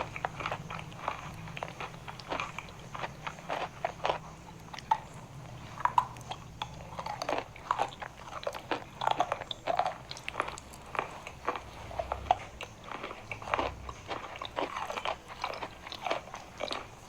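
Eating chalk bitten and chewed close to the microphone: a steady run of irregular crisp crunches, several a second.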